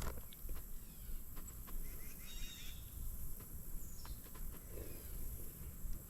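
Outdoor ambience with a steady low rumble, scattered small clicks and a brief series of bird chirps about two seconds in.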